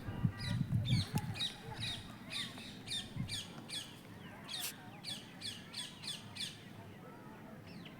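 Bird calling in a run of short, sharp squawks, about three a second, that stops near the end. A low muffled rumble sits under the first second or so.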